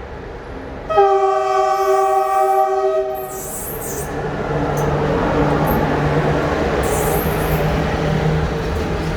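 Locomotive horn sounding one blast of about two seconds, the departure signal of a passenger train leaving the station. The train's running noise then builds into a steady rumble with a low hum as it pulls away.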